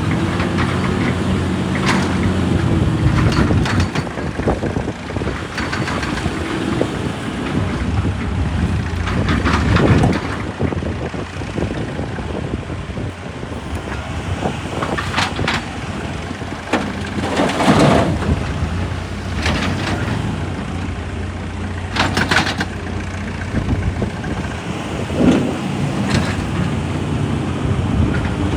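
Heavy diesel machinery running with a steady low drone, broken every few seconds by clanks and scraping surges of rock and metal.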